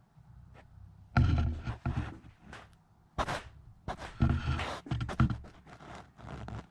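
Irregular thumps, knocks and scrapes in a small enclosed space. The heaviest come about a second in and again around four seconds in.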